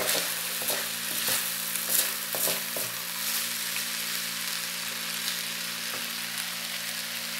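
Ground beef with chopped tomato and bell pepper sizzling in an electric skillet while a spoon stirs it. There are several scrapes and knocks of the spoon on the pan in the first three seconds, then a steady sizzle.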